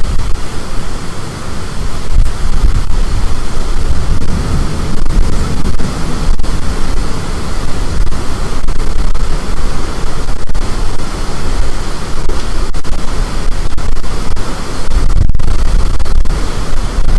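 High wind blowing hard across the microphone: a loud, continuous rush with heavy, gusting low rumble.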